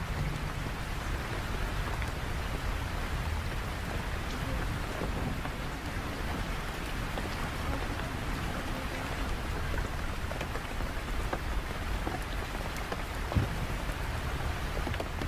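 Rain falling steadily on surfaces, with a low rumble of thunder underneath throughout. One sharp tap about thirteen seconds in.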